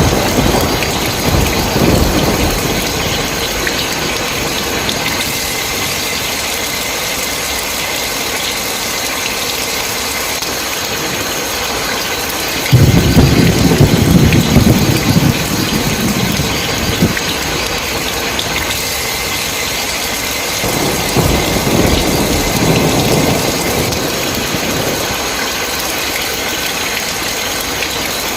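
Heavy rain falling steadily, with thunder rolling over it. A rumble fades out at the start. About halfway through a sudden loud thunderclap rumbles for a few seconds, and a softer roll of thunder comes later.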